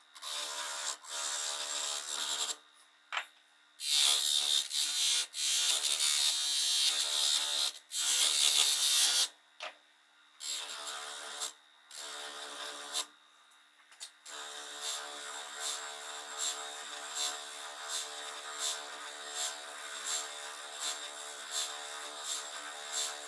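A small electric power tool running in stop-start bursts, then running steadily with a regular pulsing near the end.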